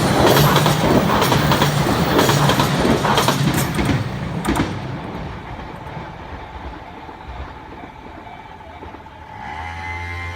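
Train passing over a railway level crossing: loud wheel-and-rail rumble with sharp clacks over the rail joints for the first few seconds, then the noise dies away as the train moves off.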